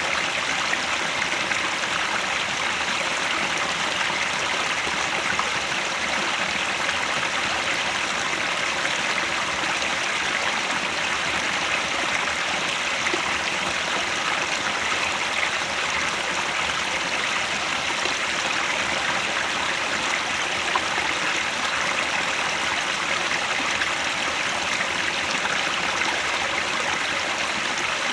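Headwater mountain stream flowing steadily, a continuous even rush of water with no breaks.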